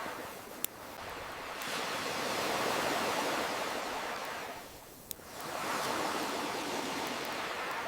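Ocean surf washing in and ebbing in slow swells, with sharp single pops from a crackling campfire, one just after the start and one about five seconds in.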